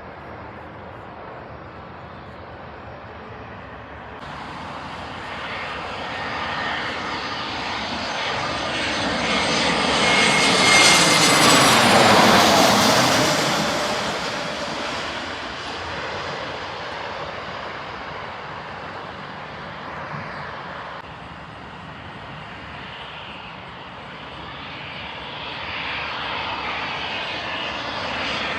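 An airplane passes close by. Its engine sound swells to a peak about twelve seconds in, drops in pitch as it goes by, then fades. Near the end the engine sound of another aircraft begins to build.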